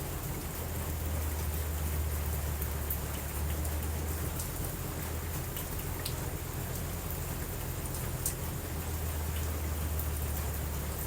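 Steady rain falling, with a continuous low rumble underneath and scattered light ticks.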